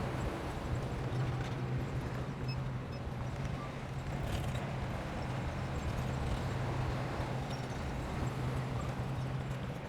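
Heavy earth-moving machine's engine running with a steady low hum, with a few light knocks and clanks.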